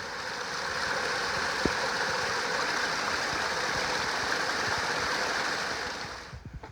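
Small waterfall on a spring-fed creek, water rushing steadily over the drop, which falls away sharply about six seconds in.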